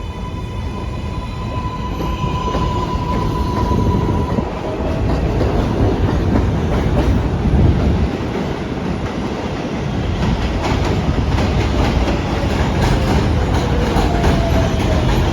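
R188 subway train on the elevated Flushing Line tracks, its motors giving a steady high whine for the first few seconds, then growing louder as its wheels clatter over the rail joints, with a brief falling wheel squeal near the end.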